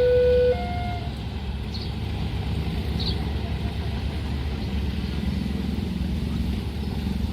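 Railway level-crossing alarm sounding a two-tone electronic ding-dong, alternating a low and a higher tone, which stops about a second in. After that comes a steady low vehicle rumble.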